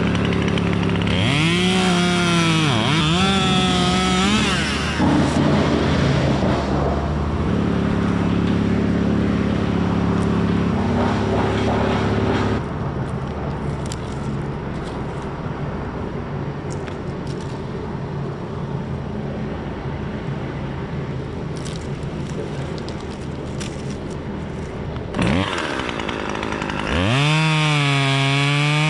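Chainsaw revving up and down a few times, then running more steadily. The sound drops to a lower, rougher note for a stretch in the middle and revs up and down again near the end.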